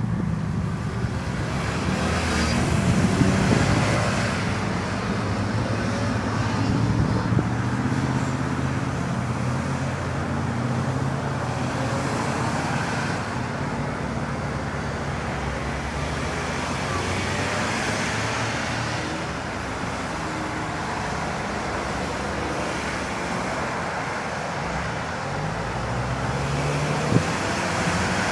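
Steady vehicle engine and traffic noise, with a low engine hum throughout.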